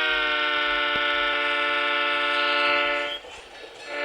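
Train horn sounding a long chord-like blast, its pitch dropping slightly in the first second as the train passes. It breaks off about three seconds in and sounds again just before the end.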